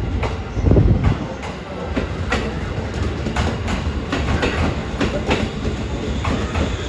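JR 211 series 3000 electric multiple unit pulling out and rolling past close by: a steady low running rumble with irregular clicks of the wheels over rail joints and points, loudest about a second in. No horn sounds.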